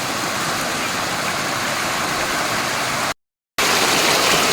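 Steady rush of falling water from a waterfall. The sound cuts out completely for a moment a little after three seconds in, then returns slightly louder.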